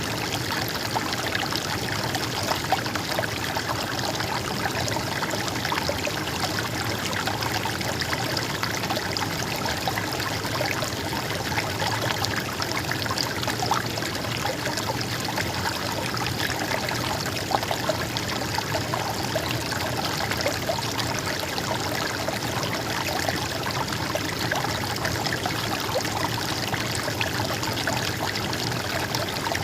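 Water in a stream flowing and trickling steadily, with no break or change.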